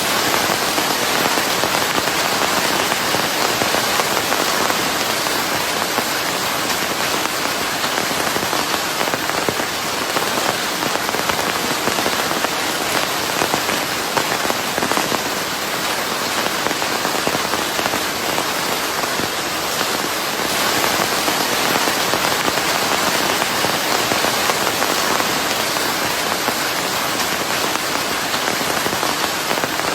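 Steady rain, a dense even patter of drops blended with white noise, cutting in abruptly at the start and holding a constant level.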